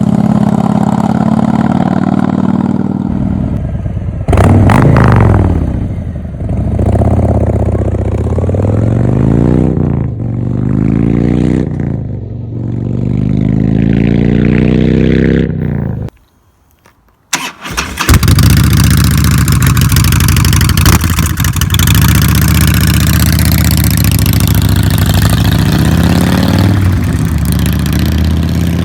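Harley-Davidson V-twin motorcycle exhaust idling, then revved hard several times, the pitch rising and falling with each blip. After a brief gap the engine runs loud and steady at higher revs.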